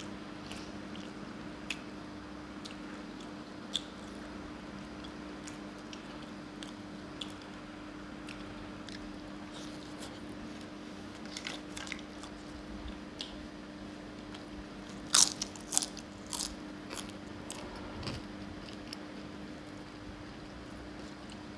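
Close-miked chewing of a mouthful of roti and mutton curry: scattered wet mouth clicks, with a burst of louder ones about fifteen seconds in.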